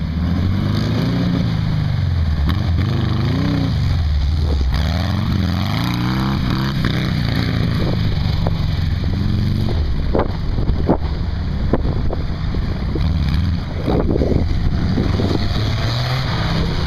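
Baja Bug and sandrail engines revving up and down as the buggies drive the dirt course, the engine pitch rising and falling repeatedly. Several short, sharp pops cut through in the second half.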